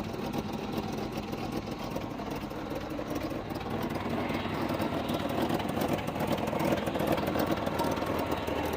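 A truck engine idling steadily, a low even hum with a rougher mid-range rumble over it.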